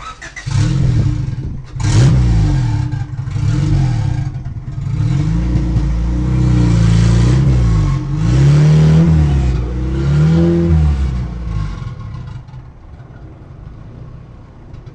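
Car engine revved repeatedly, its pitch climbing and falling in about eight sweeps, several of them held high for a second or two. It then drops back to a quieter low run about twelve seconds in.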